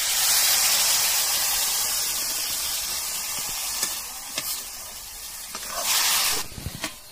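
Loud sizzling as liquid is poured from a steel bowl into mushrooms and brinjal frying in hot oil in a kadhai, fading over a few seconds. The sizzle flares up again briefly about six seconds in, with a few clinks of a steel ladle stirring.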